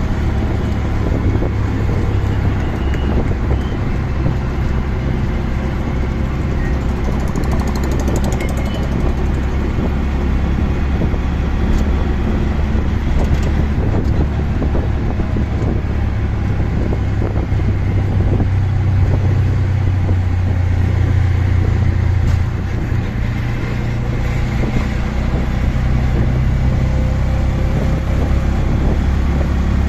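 Auto-rickshaw engine running during a ride, a steady low drone that shifts in pitch a few times as it speeds up and slows, with road noise around it.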